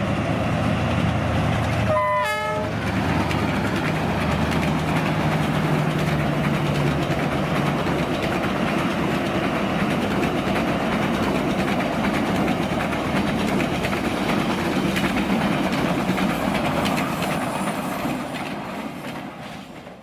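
Train running on the rails with a steady rumble and clatter, and a short horn blast about two seconds in. The sound fades away near the end.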